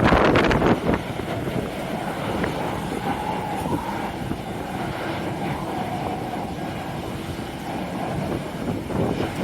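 Strong wind buffeting the microphone in hard gusts at the start, over a steady rumble of jet aircraft with a faint engine whine in the middle.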